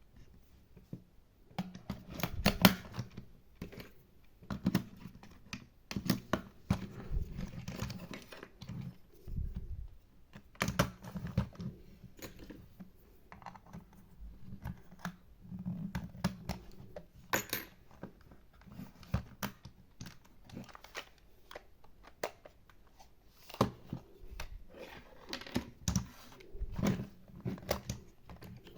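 Small plastic toy pieces being handled: irregular clicks, taps and light rustling, with a few louder knocks as pieces are set down.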